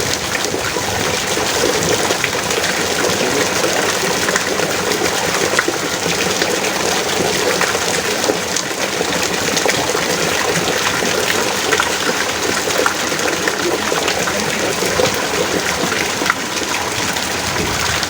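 Heavy rain pouring steadily, a dense even hiss speckled with countless small drop impacts.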